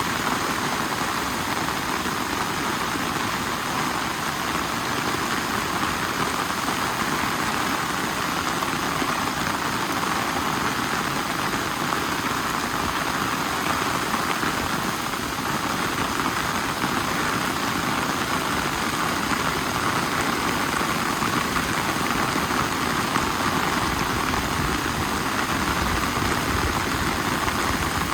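Steady rain falling, with a low engine rumble underneath that grows stronger near the end.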